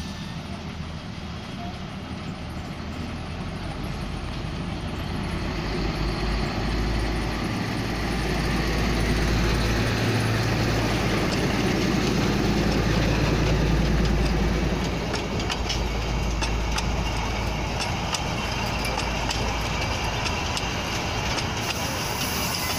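Narrow-gauge diesel locomotive of the Matheran toy train approaching and passing close by, its engine rumble swelling to its loudest about halfway through. After it passes, the coaches roll by with a run of clicks and rattles.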